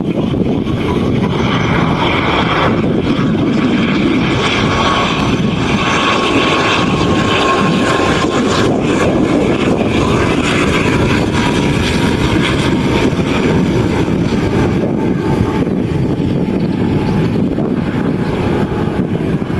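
Airliner engines running loud and steady close by, with a faint whine that slowly drops in pitch.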